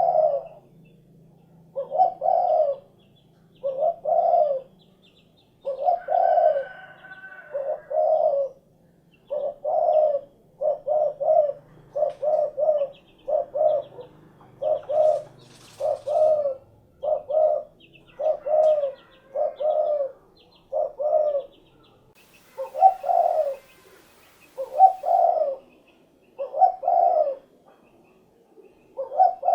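Spotted dove cooing: its low, repeated coo phrase comes again every one to two seconds, with faint chirps of small birds above it.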